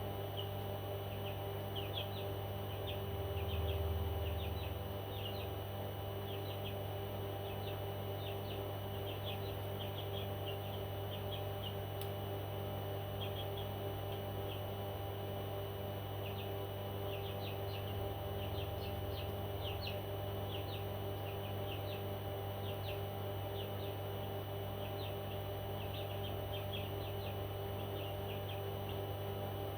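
Pet parrot chirping in quick clusters of short, high notes, over a steady electrical hum. A brief low rumble comes about four seconds in.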